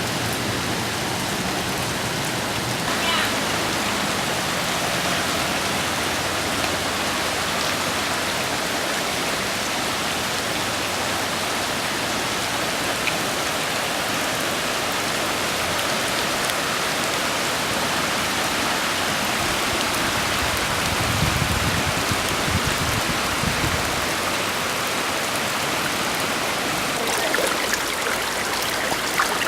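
Steady rush of floodwater in a swollen creek, an even wash of water noise with a brief low rumble about three-quarters of the way through.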